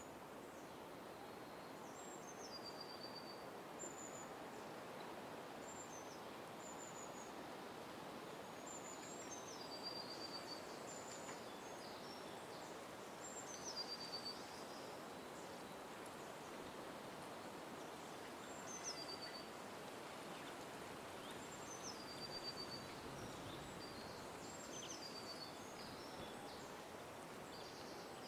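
A songbird repeating a short high phrase every few seconds, each a high note that drops into a quick run of lower notes, over a steady background hiss.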